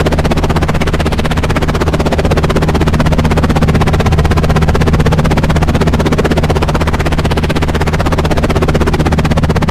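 Helicopter running, its rotor blades beating in a rapid, even pulse over a steady low drone.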